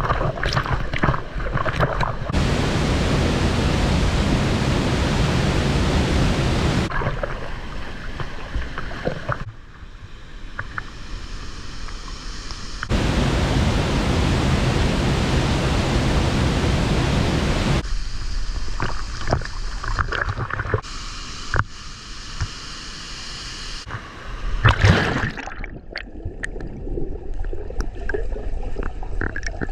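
A waterfall's water rushing as a steady noise, heard in several short shots that cut abruptly from one to the next, so the strength and tone of the rush change at each cut.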